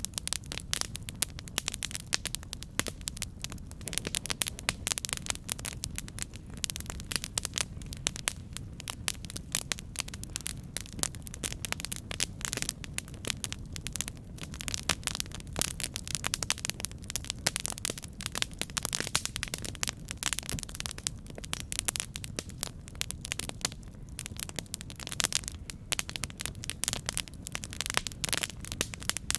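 Campfire burning with constant dense crackling and frequent sharp pops, over a low steady rumble of the flames.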